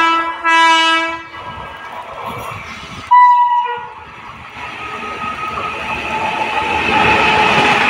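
Indian Railways WAP-7 electric locomotive sounding its horn twice as it approaches: a longer, lower blast at the start and a short, higher blast about three seconds in. Then the running noise of the locomotive and its coaches on the rails grows steadily louder as the train nears.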